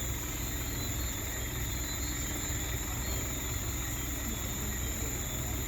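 A big truck's engine running at a steady idle: an even low rumble, with a thin steady high tone above it.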